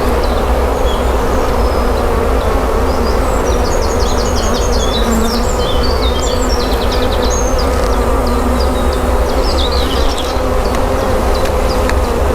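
Honeybees buzzing around an open hive being inspected: a steady hum, with quick high chirping notes over it from about a second in until near the end.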